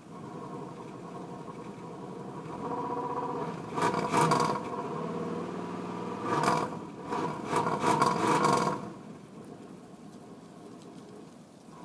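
1990 Cadillac's V8 engine on a cold start, running unevenly with several louder surges between about 4 and 9 seconds in, then dropping to a quieter, steady level.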